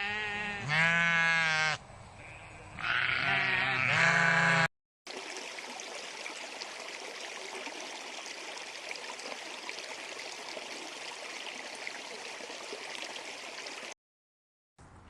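Two long, wavering bleats from a sheep or goat over the first few seconds. After a sudden cut, about nine seconds of steady rushing running water follows, which stops abruptly near the end.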